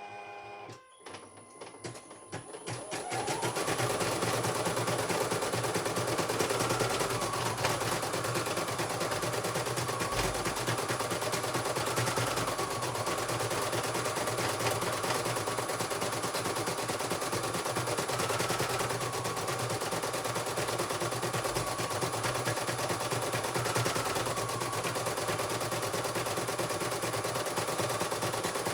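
CNY portable computerized embroidery machine stitching at full speed on a test run. A short beep comes at the start, then the motor winds up over the first few seconds into a fast, steady needle clatter with a whine that dips briefly every few seconds.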